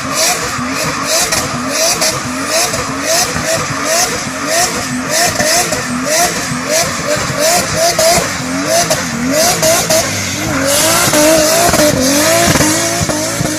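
Turbocharged Toyota Supra engine revved in quick repeated blips, about two a second, its pitch rising and falling with each one. About eleven seconds in it turns to a steadier, more even run with more hiss on top.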